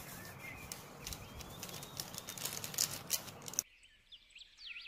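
Small birds chirping in the background over a steady noisy room sound, with scattered light clicks. Near the end the low background cuts out abruptly, leaving only the chirps.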